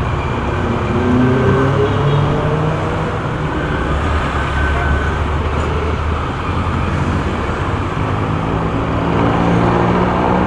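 Motorcycle riding through city traffic: the engine runs steadily over road and wind noise, its pitch climbing as it speeds up about a second in and again near the end.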